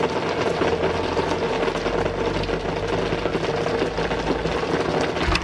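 Heavy rain pouring down, a dense, rapid patter of drops striking close to the microphone. A brief knock comes near the end.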